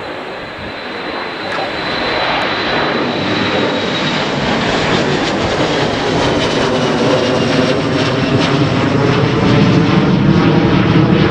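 Airliner engines, a rumble with a thin high whine that grows steadily louder as the aircraft comes closer, the whine sinking slightly in pitch.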